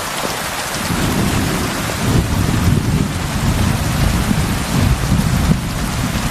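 Heavy rain falling steadily on a roof, with a deep rolling rumble of thunder that comes in about a second in and swells, carrying on under the rain.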